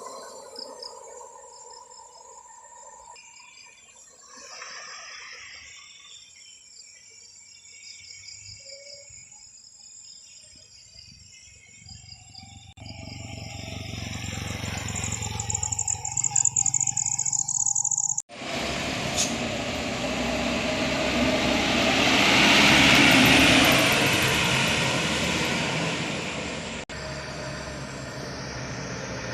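Traffic on a steep hill road: faint engine sounds at first, then vehicle noise building up. After a sudden cut, a loud rush of engine and tyre noise from a passing vehicle swells and fades.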